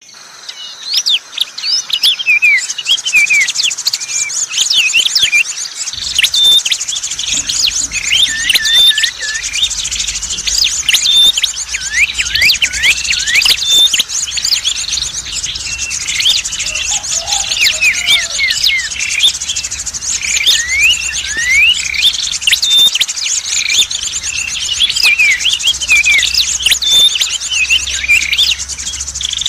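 Bird-lure recording of many small songbirds calling together: a dense chorus of quick chirps and short rising and falling whistles over a steady high trill.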